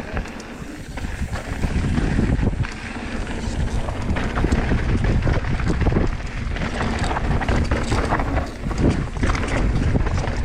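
Mountain bike riding fast downhill on a dirt and rock trail: wind buffeting the microphone over tyre rumble and frame rattles, with scattered knocks from bumps.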